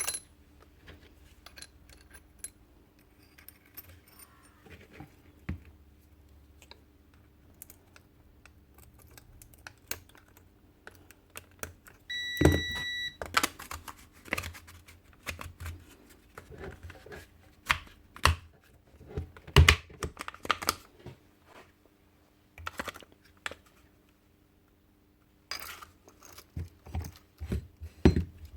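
Hand tools and metal parts being handled on a workbench during reassembly of a power-tool hammer: scattered clicks, taps and knocks, with a brief steady tone lasting about a second roughly halfway through.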